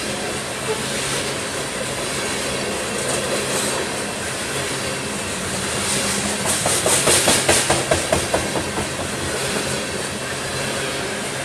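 Loaded coal train cars rolling past with a steady rumble of steel wheels on rail. About halfway through there is a quick run of wheel clacks, roughly five a second, as the wheels cross a rail joint.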